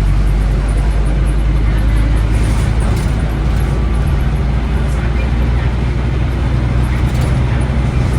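Scania N270UD OmniCity double-decker bus's five-cylinder diesel engine running steadily, heard from on board as a low drone with road and body noise over it.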